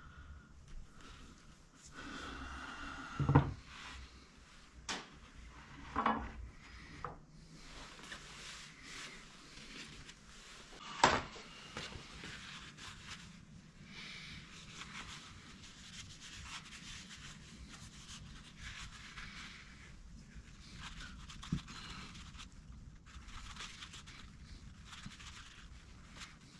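Hand work on motorcycle suspension parts: rubbing and scraping of parts and tools, with a few sharp knocks about three, six and eleven seconds in.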